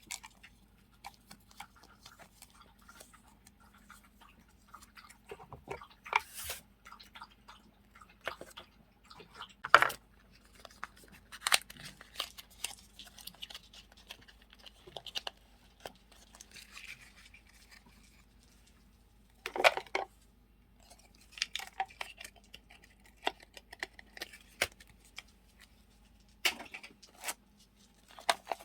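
Paper and plastic stationery being handled: soft crinkling and rustling with scattered light taps and clicks, and a few louder crinkles now and then.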